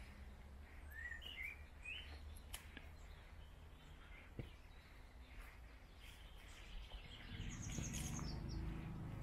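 Small songbirds chirping in short high calls a second or two in, then a rapid high trill near the end, over faint outdoor background noise. A low rumble swells in the background for the last couple of seconds.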